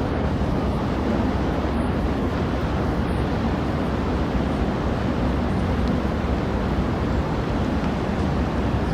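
Steady, even rumbling noise, heaviest in the low end, with no distinct events.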